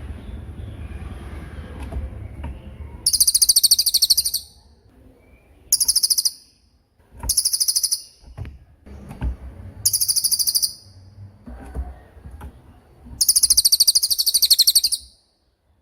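A cililin bird singing its 'tembakan' song: five very high, rapid rattling trills, each lasting half a second to nearly two seconds, with the longest near the end. A low rumbling background noise sits under the first few seconds.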